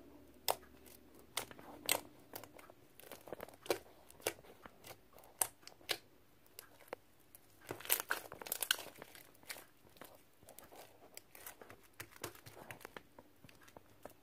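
Sticky glossy slime with beads mixed in, squeezed and stretched by hand, giving irregular sticky pops, clicks and crackles, with a busier run of them about eight seconds in.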